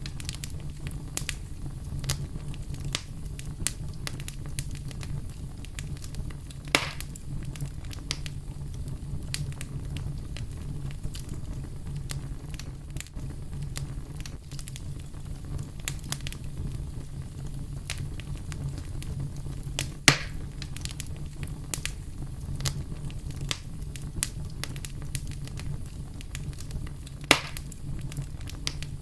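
Wood fire burning with a steady low rumble and continual small crackles, broken by three louder pops.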